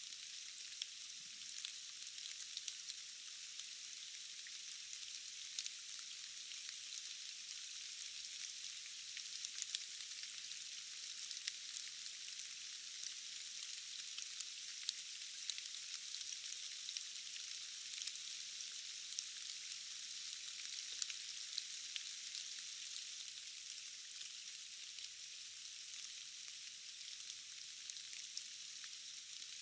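Steady rain, an even high hiss with many small sharp drop ticks scattered through it and almost nothing in the low end.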